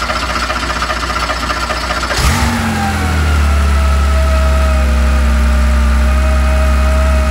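Air-cooled Porsche 911 flat-six starting: it runs rough for the first two seconds, then catches fully and settles into a steady idle with the cooling-fan whine. The idle is a bit high, with the ignition timing still to be set by turning the distributor.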